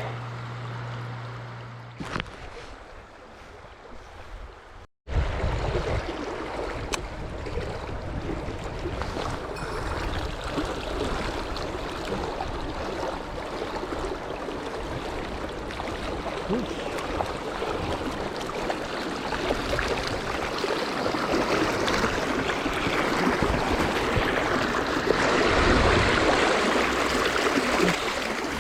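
Stream water rushing steadily, a continuous hiss of moving water that grows somewhat louder toward the end. It cuts out briefly about five seconds in, and a steady low hum sounds for the first two seconds.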